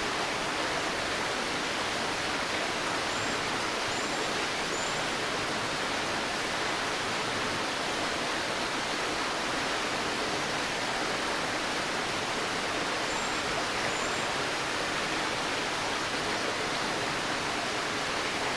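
Steady rushing of running water, an even unbroken wash of sound, with a few faint, short high chirps in two small clusters.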